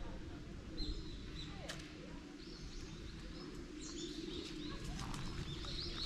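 Small birds calling with short, high, repeated chirps, more of them in the second half, over a steady low outdoor rumble. A few sharp clicks fall in with them, the loudest about a second in.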